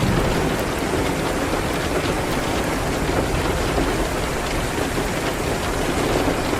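Steady rain hitting a window: a dense, even hiss with a deep low rumble underneath.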